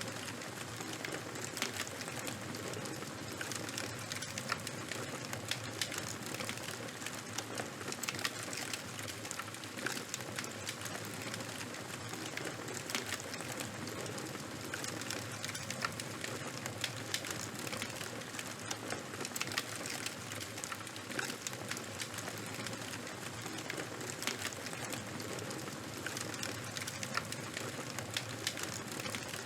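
Charcoal and bonfire burning: a steady hiss with frequent sharp crackles and pops.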